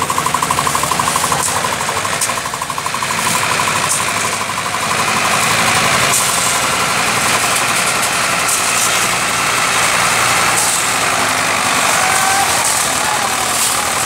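Ford 3610 tractor's three-cylinder diesel engine running with a rapid, even chugging pulse. After a brief dip it settles into a louder, steadier run from about five seconds in.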